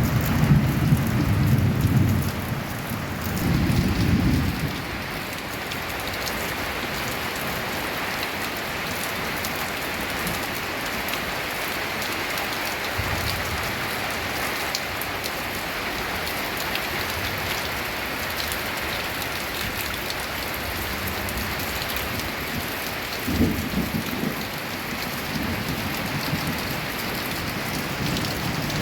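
Steady rain falling on a tin roof, with low rumbles of thunder in the first few seconds and again about three-quarters of the way through.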